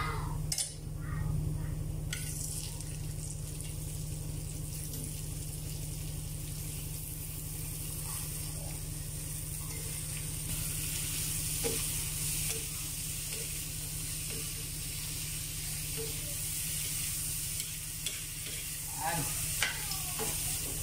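Shrimp sizzling as they fry in hot butter and garlic in a wok, with occasional clinks of a metal spatula against the pan. The sizzle grows louder about halfway through as the rest of the shrimp go in.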